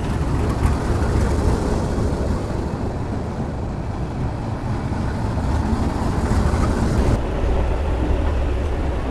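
Passenger train running, a steady low rumble and rattle.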